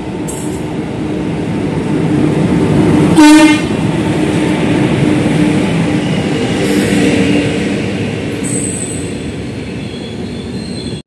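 Indian Railways electric locomotive and its passenger coaches running past along the platform: a steady rumble and clatter of wheels on rail. A short, loud horn blast comes about three seconds in, with brief high squeals now and then.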